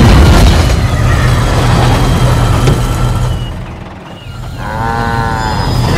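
Rumbling train sound effect with faint music over it, fading away about four seconds in; then a cow moos once, its call rising and falling.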